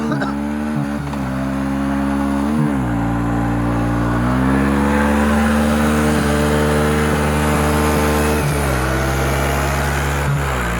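Vehicle engine running hard under throttle, its pitch holding steady and then dipping and settling at a new level three times, as with gear changes.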